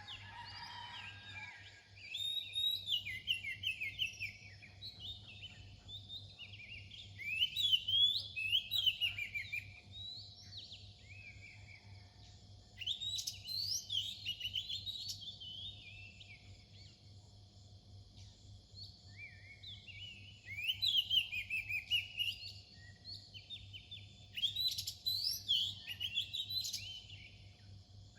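Oriental magpie-robin singing: bursts of varied, quickly rising and falling whistled phrases, each a few seconds long, with short pauses between them.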